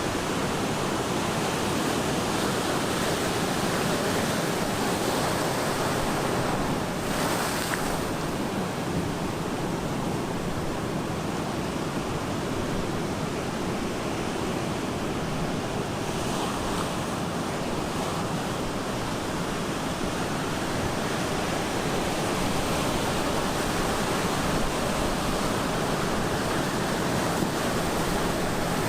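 Ocean waves breaking continuously on the shore, a steady wash of surf noise, with a brief louder, hissier burst about seven seconds in.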